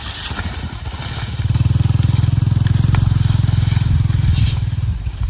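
A small engine running close by with a fast, even low pulse, growing louder about a second in and easing off near the end.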